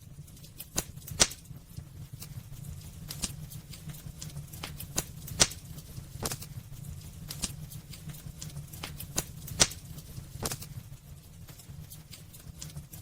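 Wood fire burning in a fireplace, crackling with irregular sharp pops, a few standing out louder, over a steady low rumble of the flames.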